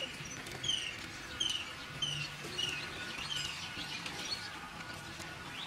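A bird calling outdoors, repeating a short falling chirp about three times every two seconds. The calls grow fainter after about three and a half seconds.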